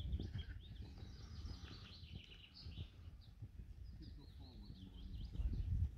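Songbirds chirping and singing in short phrases, over a low rumble that swells near the end.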